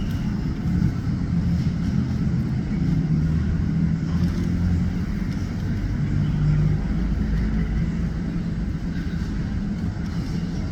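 Steady low engine rumble with a slowly wavering drone and no sudden events.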